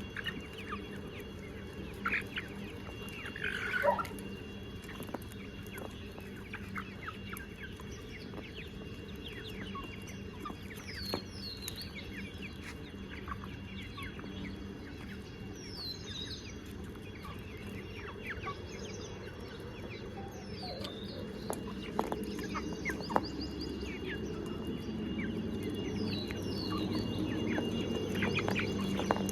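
Desi chickens clucking and calling in a flock, with scattered short high chirps throughout and a louder call about four seconds in, over a low background noise that grows louder near the end.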